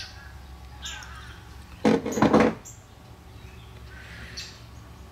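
A bird calling loudly twice in quick succession about two seconds in, with fainter calls before and after, over a steady low hum.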